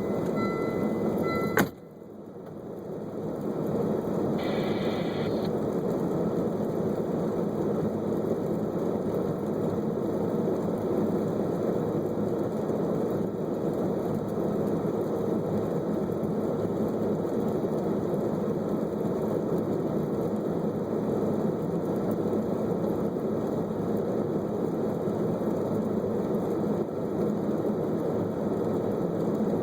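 Steady electronic tones cut off abruptly about two seconds in. Then comes the steady running noise of a car, a dense hum and hiss that builds up over the next couple of seconds and holds even.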